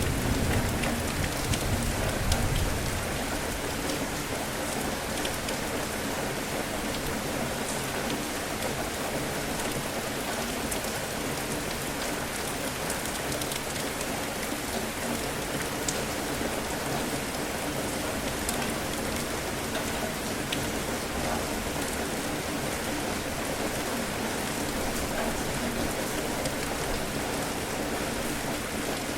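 Steady rain falling during a thunderstorm, a continuous hiss with scattered sharp drop ticks. A low rumble of thunder dies away in the first few seconds.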